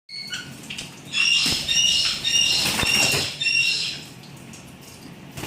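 Baby white-bellied caiques bathing: wings flapping and splashing in water, with a high squeaky call repeated about twice a second. It grows loud about a second in and eases off after about four seconds.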